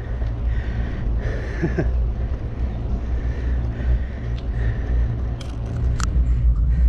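Steady low rumble of wind buffeting the microphone and road noise while riding a bicycle, with one sharp click about six seconds in.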